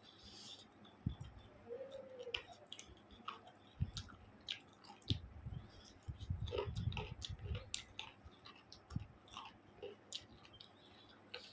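Close-miked chewing of a mouthful of chicken curry and rice: irregular wet clicks and smacks, with a denser run of chewing about halfway through.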